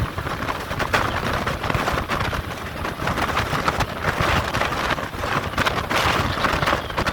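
Strong wind buffeting the microphone in uneven gusts over the low rumble of a vehicle on the road.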